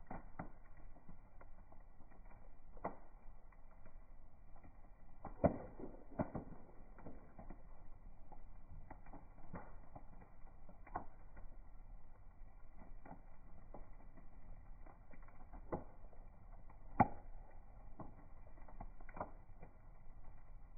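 Bonfire crackling, with irregular pops and snaps of burning wood over a low steady hiss; two louder pops stand out, about five seconds in and again near the end.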